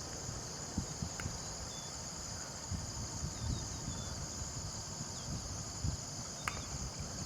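Steady high-pitched chorus of crickets, with uneven low wind rumble buffeting the microphone.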